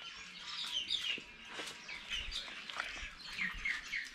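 Small birds chirping: many short, high, falling chirps repeating several times a second.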